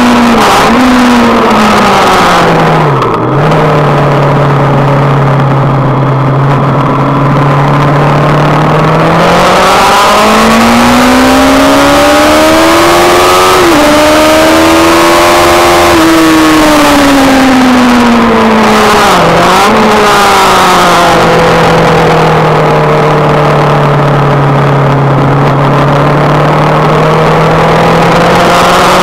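Sport motorcycle engine heard from the rider's seat over heavy wind rush, revving hard through a track lap. Its pitch drops sharply about three seconds in and holds low, climbs steadily for several seconds, falls away again with a sharp dip, holds, and starts climbing once more near the end.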